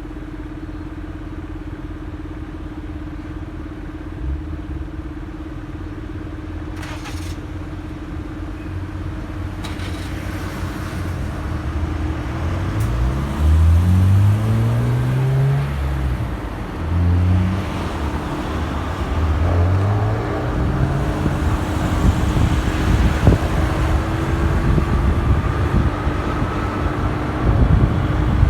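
Motorcycle engine running steadily at low revs, then pulling away about halfway through, its pitch rising and dropping several times as it goes up through the gears, with wind and road noise building as speed picks up.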